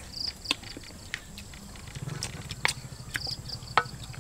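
Chewing and lip-smacking from two people eating pieces of cooked snake meat with their fingers: scattered short wet clicks. Two short high chirps sound in the background, and a low hum comes in about halfway.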